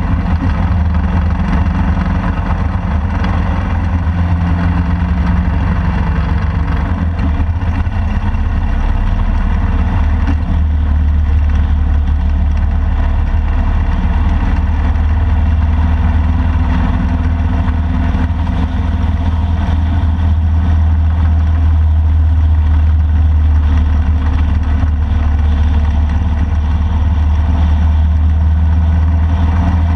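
Touring motorcycle engine running steadily as the bike rides along at road speed, a loud low rumble whose pitch shifts slightly a few times.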